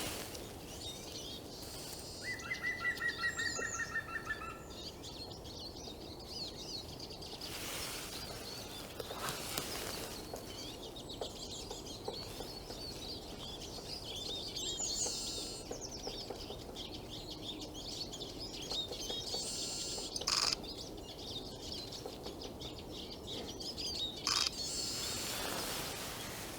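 Many small songbirds chirping and calling in the trees, with a louder rapid trill of repeated notes lasting about two seconds near the start. A few brief bursts of noise are heard over the birdsong.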